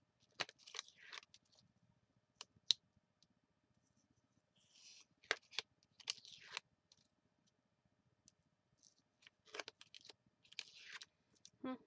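Scattered sharp clicks and taps with a few short rustles of paper being handled and worked by hand, about a dozen small sounds spread unevenly.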